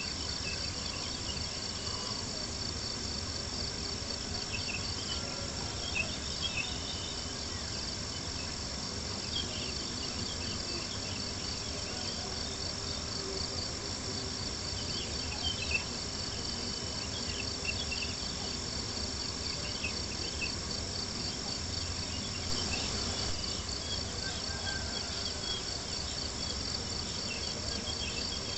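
Crickets chirping in a steady, fast pulsing trill, over scattered small crackles of a campfire, with two louder pops about six and sixteen seconds in.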